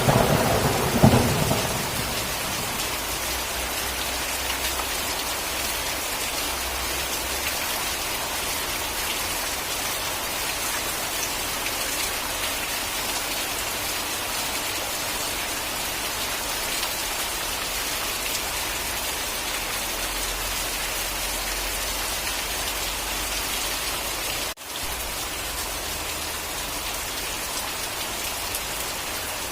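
Steady heavy rain falling. A thunderclap's rumble fades out in the first couple of seconds, and the sound drops out for a moment about three-quarters of the way through.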